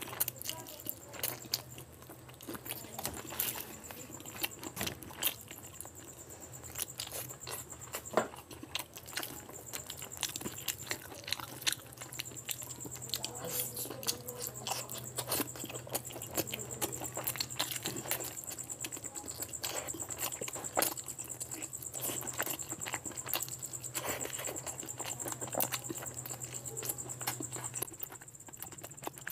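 Close-miked eating sounds of a person eating rice and curry by hand: chewing and wet mouth clicks and smacks, with squelches of fingers working the rice on the plate.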